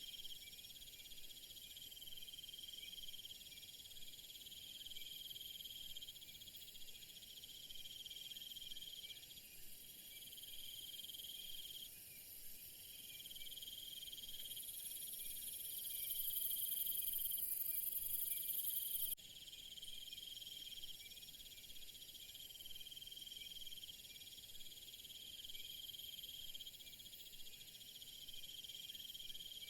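Night chorus of crickets and other insects, a steady high-pitched trilling with a pulsing trill that comes and goes every few seconds. A louder, very high insect buzz joins about halfway through and stops abruptly a few seconds later.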